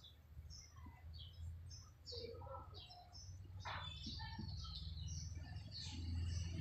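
Small birds chirping faintly and intermittently in short, high-pitched notes. A low hum grows louder in the second half.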